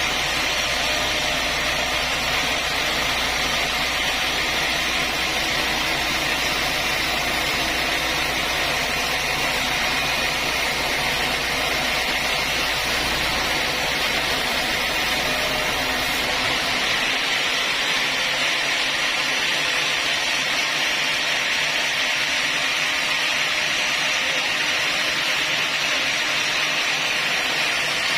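Sawmill saw running with a steady mechanical noise. A low hum underneath it stops about two-thirds of the way through.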